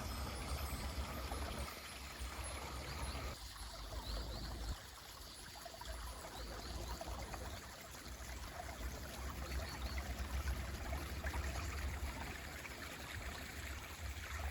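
Mountain stream flowing steadily, an even rush of water with a deep low rumble that eases about five seconds in. A few faint, short bird chirps sound high above the water.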